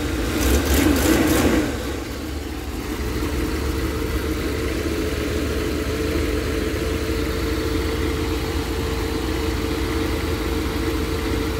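V8 engine idling just after a head gasket replacement, a little louder for the first couple of seconds, then steady. There is no knocking, and the owner hears an exhaust leak on one side.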